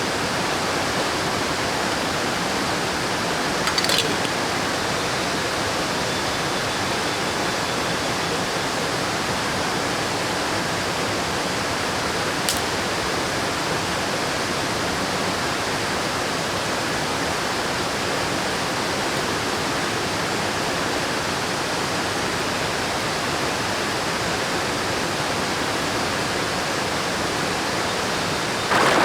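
River water rushing steadily, with two brief clicks, one about four seconds in and one about twelve seconds in.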